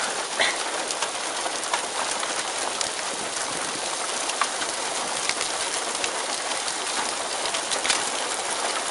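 Pea-size hail and heavy rain falling: a steady hiss of rain, dotted with many sharp ticks of hailstones striking.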